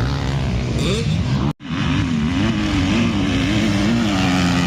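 Motocross bike engines revving up and down on the track, the pitch wavering as the throttle opens and closes. The sound drops out for an instant about a second and a half in.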